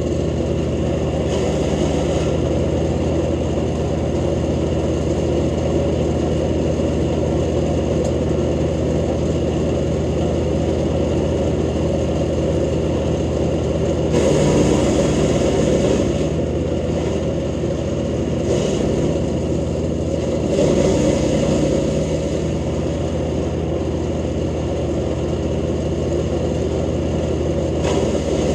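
Jansen GTS-1500 wood chipper running steadily at speed, with louder, rougher stretches about halfway through and again a little later as branches are fed in and chipped.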